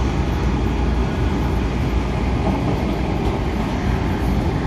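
MTR A-Train in motion, heard from inside the car: a steady low rumble of wheels on track and the running train.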